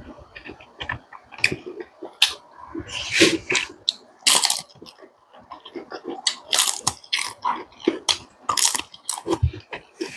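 Close-miked eating: wet chewing and crunching with irregular sharp clicks and smacks, typical of a mukbang with smoked pork.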